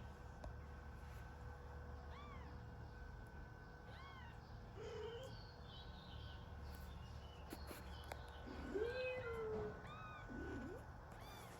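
Kitten mewing: short, high-pitched arched mews every couple of seconds, with a louder, lower and longer meow about nine seconds in.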